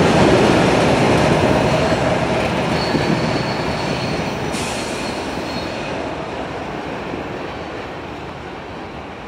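Freight train's rear diesel locomotive and cars rolling past on the rails and fading away steadily into the distance. A faint, high wheel squeal rises from the curve about three seconds in.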